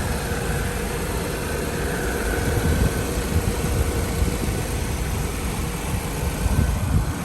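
2008 Saab's engine idling steadily, heard with the hood open.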